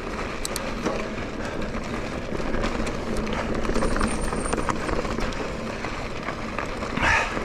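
Specialized Turbo Levo electric mountain bike riding over a dirt and gravel singletrack: a steady rush of knobby tyres on the trail, with small clicks and rattles from the bike.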